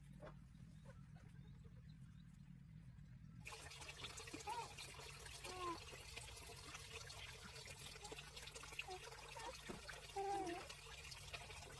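Faint trickling water that starts abruptly a few seconds in, with a few short warbling tones over it.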